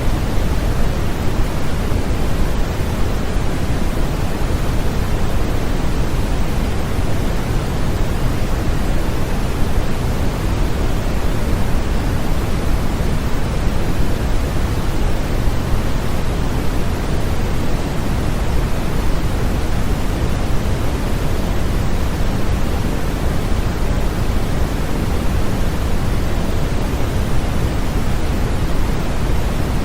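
Steady synthetic white noise used as a sleep aid: an even, unchanging hiss that is fuller in the bass than in the treble, more like pink noise.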